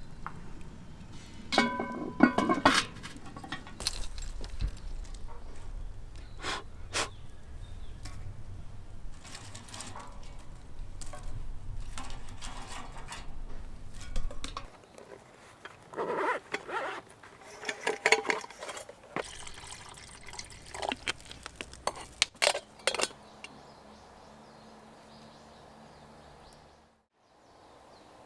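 A series of clinks, taps and handling knocks, like cookware or tableware being handled, over a low steady rumble that cuts off about halfway through; one ringing clink stands out about two seconds in.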